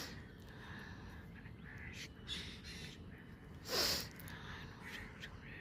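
Birds calling over a steady outdoor background: a few short calls, the loudest a little under four seconds in.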